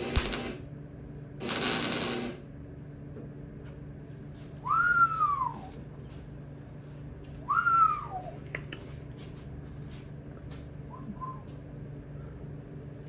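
A person whistles two notes, each sliding up and then down in pitch, after two short bursts of loud hiss. Light clicks and taps follow over a steady low hum.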